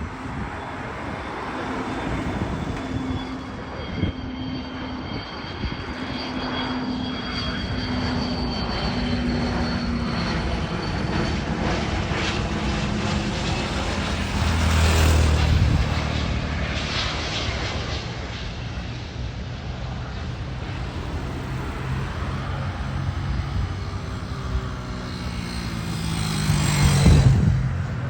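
Gulfstream G500 business jet's twin Pratt & Whitney PW814GA turbofans as it arrives: a steady jet rush with a thin high whine, swelling loudest about halfway through and again, louder, near the end.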